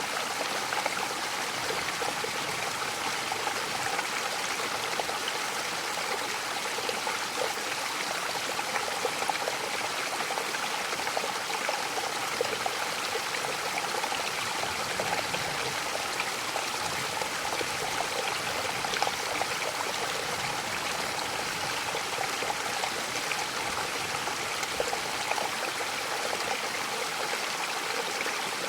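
Mountain waterfall splashing steadily, an even rush of falling water with many small splashes and trickles.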